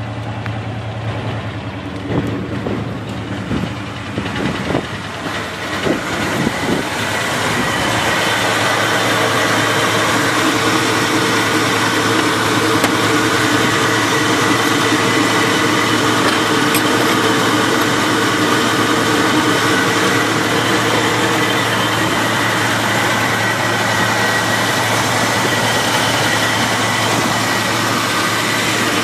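Chevrolet Chevelle's engine idling steadily. It is heard first from the rear by the exhaust, then from about eight seconds in louder and fuller at the open engine bay.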